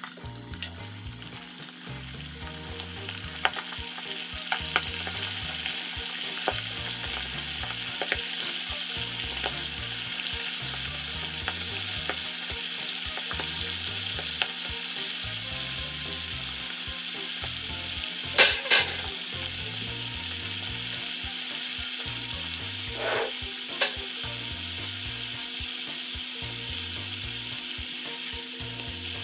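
Flour-coated chicken pieces deep-frying in hot oil, a steady sizzle that builds over the first few seconds and then holds. About eighteen seconds in there is a brief loud clatter, and a smaller one a few seconds later.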